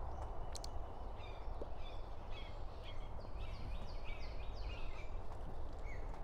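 A songbird outdoors singing a run of quick, repeated high notes for a few seconds, over a steady low background rumble.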